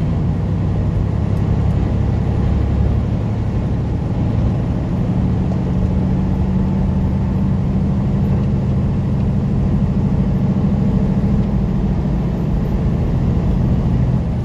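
Diesel engine of a semi truck running under way, a steady low drone over road noise; its pitch steps up about five seconds in and holds.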